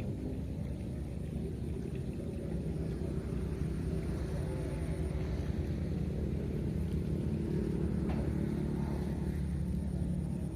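An engine running steadily with a low rumble, its pitch holding nearly even.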